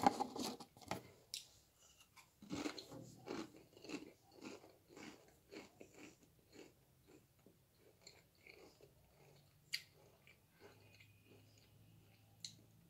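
A person biting into and chewing Pringles Chicken Tikka stacked potato crisps with the mouth full: a loud crunch at the start, then crunchy chews about twice a second that grow fainter.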